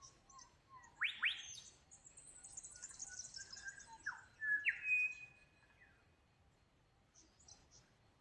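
Birds singing: two quick rising whistles about a second in, then a run of high chirps stepping down in pitch, then a falling note and a sharp rising whistle held briefly, with softer calls near the end.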